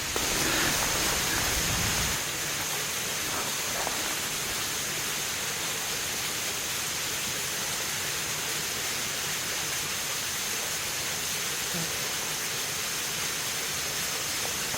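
Steady rushing noise of running water, with a thin, steady high tone above it. It is a little louder for the first two seconds.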